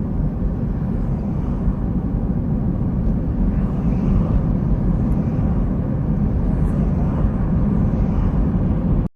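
Steady low rumble of road and engine noise from inside a moving car, cutting off abruptly at the very end.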